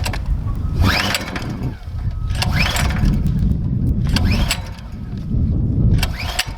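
Minibike's small engine being pull-started on choke: the recoil starter rope is yanked four times at a steady pace, each pull a quick rising whirr as the engine turns over without catching.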